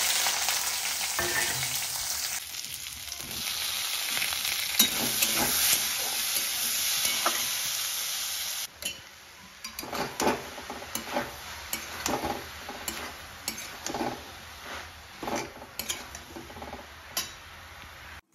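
Food frying in hot oil in a pan, a loud steady sizzle. About nine seconds in it drops suddenly to a quieter sizzle with repeated scraping strokes of a spatula stirring the pan.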